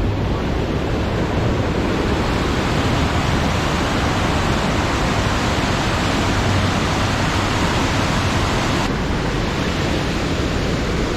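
Large mountain waterfall pouring with massive volume: a steady, loud rush of falling water. About nine seconds in, the higher hiss dulls abruptly.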